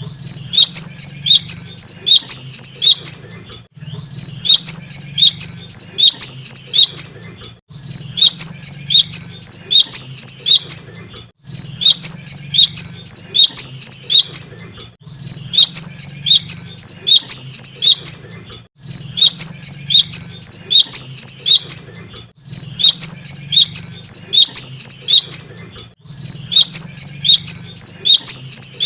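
Cinereous tit (gelatik batu) singing: bouts of rapid, repeated high notes, each about three seconds long, separated by short pauses at a regular pace, over a faint low hum.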